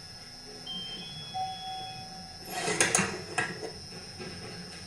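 Clicks and light knocks of chainsaw parts being handled during bench disassembly, with a short clatter of several sharp clicks about two and a half to three and a half seconds in.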